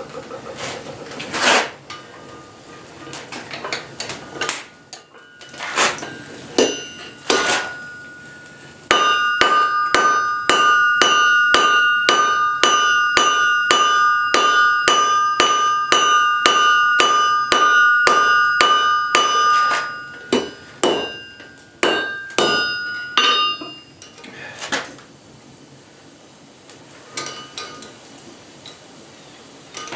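Blacksmith's hammer striking hot spring steel on an anvil, the anvil ringing with a clear steady tone. A few scattered blows come first, then a long even run of about two to three blows a second, then a few light knocks near the end.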